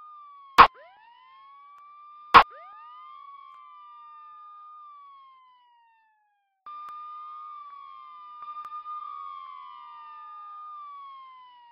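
Police siren wailing, its pitch sliding slowly up and down with overlapping echoed sweeps. Two sharp clicks, the loudest sounds, come in the first few seconds, and the siren cuts out for about a second midway before resuming abruptly.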